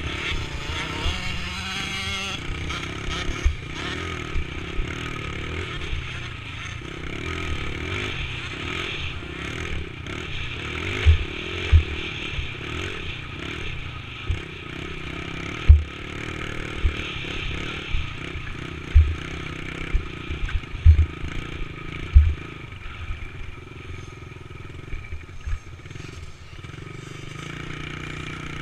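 Dirt bike engine running while riding on trail, its pitch wavering with the throttle, with frequent heavy low thumps on the microphone.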